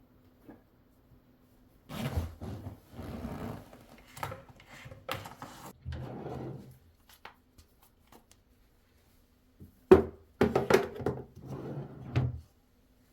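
Household objects being handled: a run of knocks, thuds and rustling in two spells, the loudest a sharp knock at the start of the second spell.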